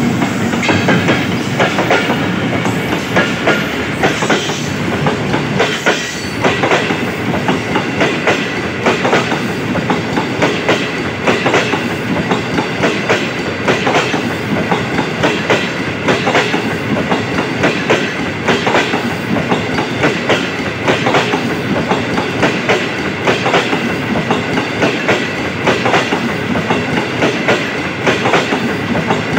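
Passenger coaches of a train rolling past at close range: a continuous rumble of wheels on steel rails with repeated clickety-clack as the wheels cross the rail joints.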